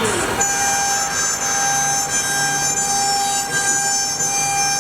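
The 3.2 kW water-cooled spindle of a 4'x8' CNC wood router running at high speed, a steady high whine with a hiss that swells and eases as the bit cuts MDF.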